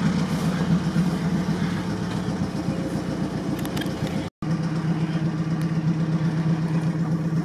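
Off-road vehicle engine idling steadily. The sound cuts out for an instant a little past four seconds in, then carries on with a slightly cleaner, steadier hum.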